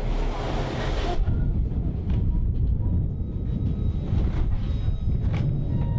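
Caboose rolling on the rails behind a diesel locomotive: a steady heavy low rumble, with a hiss that cuts off about a second in and a few sharp clicks from the wheels and track.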